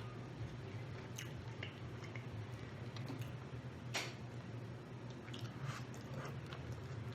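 Close-up chewing and biting of rotisserie chicken, soft wet mouth sounds with scattered small clicks and one sharper click about four seconds in, over a low steady hum.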